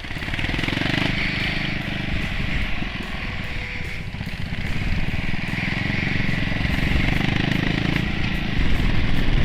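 Motorcycle engine running under way, its low pulsing steady, with wind rushing over the microphone. It grows a little louder near the end.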